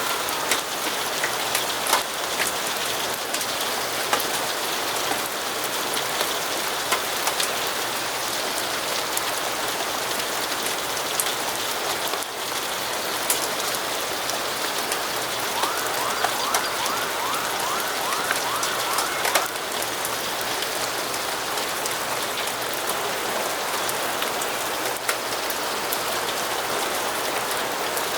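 Steady rainfall with scattered sharp drop-like clicks. A little past the middle, a quick run of short rising chirps goes on for about four seconds.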